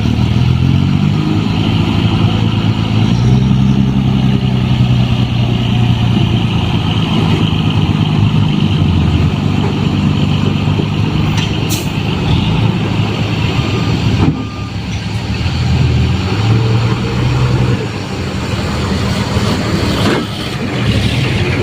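Diesel dump truck engine running and revving, its pitch climbing over the first few seconds, then holding, then dipping and rising again about 15 to 17 seconds in. There is a sharp click about 14 seconds in.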